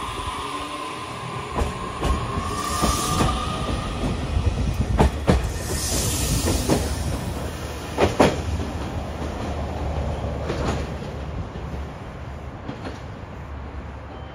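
JR Kyushu 819 series DENCHA battery-electric train pulling away: a faintly rising electric drive whine over the first few seconds, wheels clacking sharply over rail joints a handful of times, and the sound fading as the train draws off.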